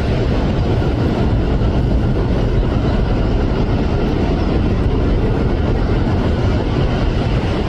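Steady, loud rumbling noise, heaviest in the low end, holding even without distinct hits or breaks.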